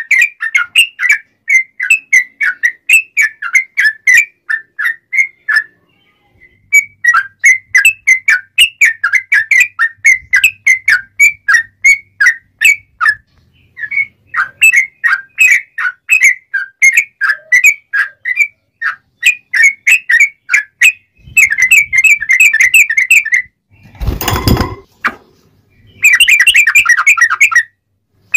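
Yellow-vented bulbul (trucuk) singing: runs of fast, sharp whistled notes with short pauses between them, ending in a denser rapid trill. A brief loud burst of noise cuts in a few seconds before the end.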